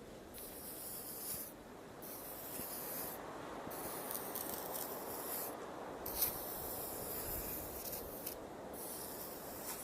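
Desert ambience: a steady rushing noise, with a high hiss that switches on and off about five times in stretches of one to two seconds, and a single brief tap about six seconds in.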